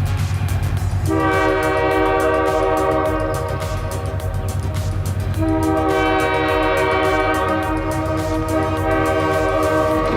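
Train horn sounding two long blasts, the first starting about a second in and the second about five seconds in, over the steady low rumble of a moving train.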